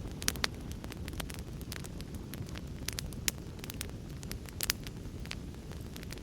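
Wood fire in a fireplace crackling, with irregular sharp pops over a steady low rushing noise.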